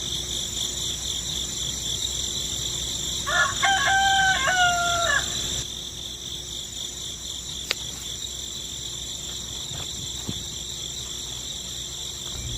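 A rooster crowing once, a segmented cock-a-doodle-doo about two seconds long, starting a few seconds in, over a steady high-pitched background drone; a single sharp click comes a few seconds later.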